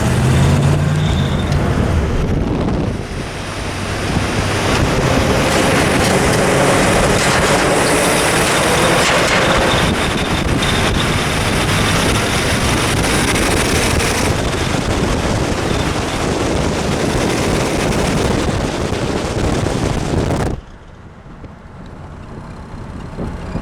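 Car on the move: the 1974 Corvette's 350 Chevy V8 running under load, rising in pitch at the start, beneath heavy wind and road noise. The sound drops off suddenly a few seconds before the end.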